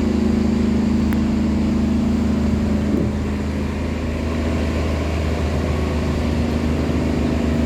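A river tugboat's engine running steadily under load while towing laden cargo barges: a constant low, droning engine note.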